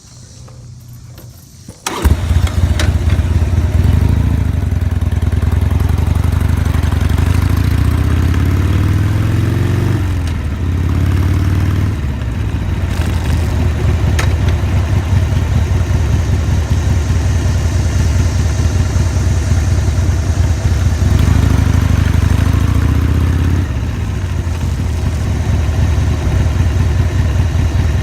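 Motorcycle engine starting up about two seconds in, then riding off. The engine pitch climbs under acceleration and drops sharply at a gear change about ten seconds in, and climbs and drops again near the end.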